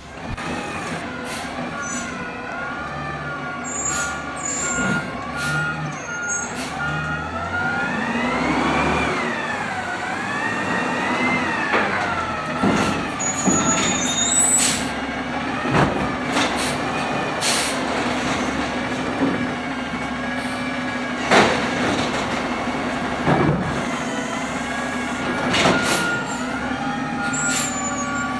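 Automated side-loader garbage truck (natural-gas engine, arm run at idle) running through a curbside pickup: a steady engine hum with a hydraulic whine that rises and falls, sharp clanks and bangs, a few brief air-brake hisses, and a repeating beep at the start and again near the end.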